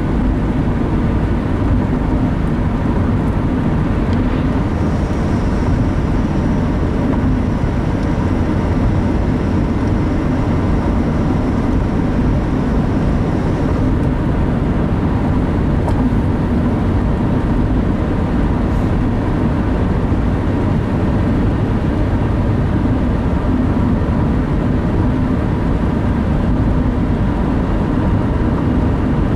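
Steady road and engine noise inside a moving car's cabin, with a faint thin high whine for several seconds near the start.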